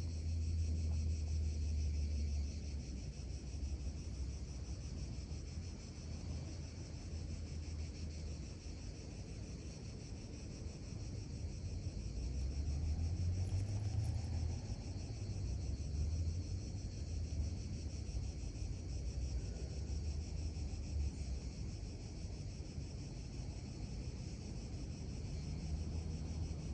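Outdoor urban park ambience: a low rumble that swells and fades, like distant traffic or wind, under a steady high-pitched hiss.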